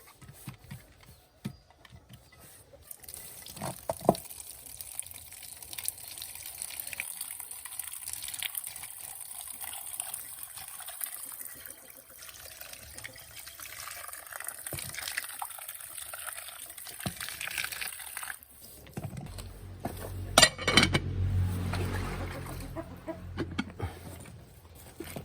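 Water pouring steadily for about fifteen seconds, then stopping. A low rumbling follows, with a sharp knock near the end.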